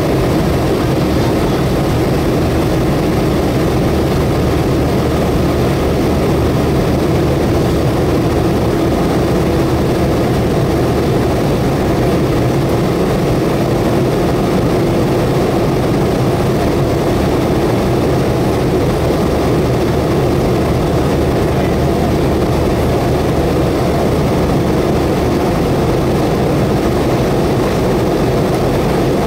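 McDonnell Douglas MD-90 jet airliner heard inside the cabin, its tail-mounted IAE V2500 turbofans running steadily. A loud, even rush of engine and airflow noise with a constant low hum that does not change.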